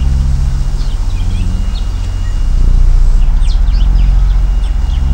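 A loud low drone with a fast, even pulse, under scattered short bird-like chirps, with a faint steady high tone running through it.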